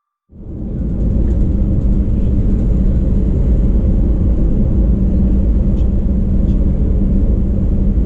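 Steady low rumble inside the cabin of an Airbus A319-114 jet airliner, with a faint steady high whine on top. It fades in just after the start and holds at full level from about a second in.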